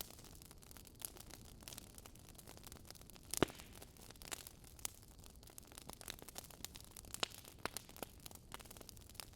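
Wood fire burning in a fireplace, crackling with irregular sharp pops and snaps over a soft hiss; one loud pop about a third of the way in.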